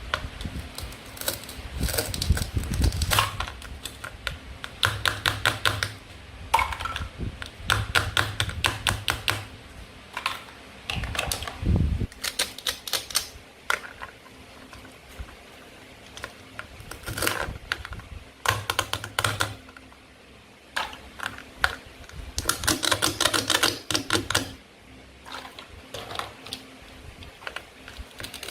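Plastic and wooden toy fruit and vegetable pieces being handled and cut with a toy knife: bursts of quick clicks and taps, with short quieter gaps between them.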